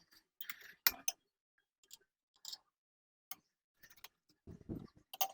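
Faint, irregular clicks and light taps from hand tools and parts being handled, scattered a few to the second with pauses between.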